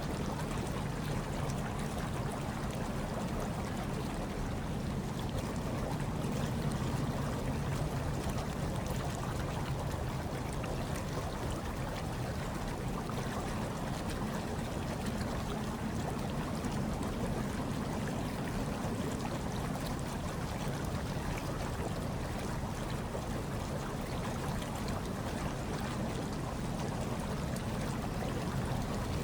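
Hot tub water churning and bubbling steadily with a low hum underneath, blended with a soft hush of snowstorm wind.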